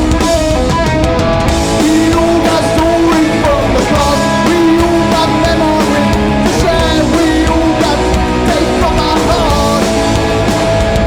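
Punk rock band playing live at full volume: distorted electric guitars with a held melodic lead, bass and drum kit.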